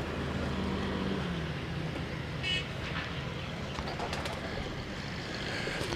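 Outdoor background: a steady low hum of distant traffic, with a low engine drone fading out over the first second and a half and one short high chirp about two and a half seconds in.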